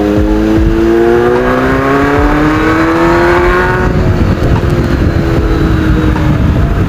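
Kawasaki Z800 inline-four with a racing exhaust accelerating: the engine note climbs steadily for about four seconds, then holds and eases slightly, with a heavy low wind rumble underneath.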